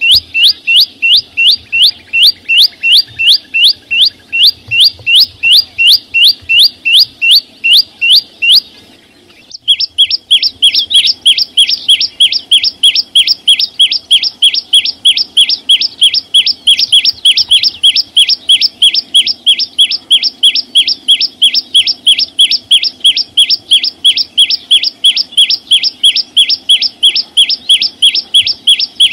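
Small songbird the uploader calls chim sâu xanh singing a loud, fast series of identical sweeping high notes, about three a second. The series breaks off for about a second near nine seconds in, then starts again faster and louder.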